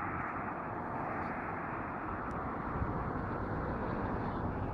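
Distant Mark 4 passenger train approaching slowly along the line, a steady rushing rumble that grows gradually louder.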